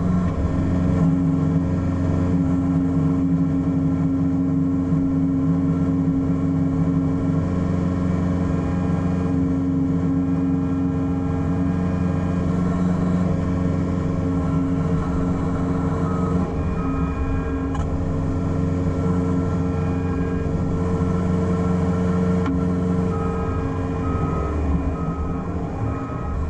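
Excavator's diesel engine running steadily. A faint, high repeating beep joins in near the end.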